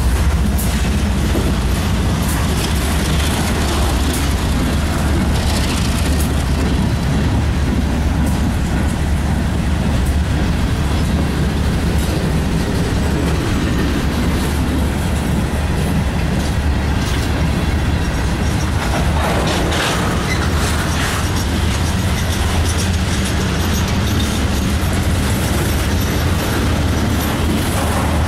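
Freight train cars rolling past close by, a steady heavy rumble of steel wheels on rail with clicking and clacking over the rail joints as hoppers, boxcars and tank cars go by.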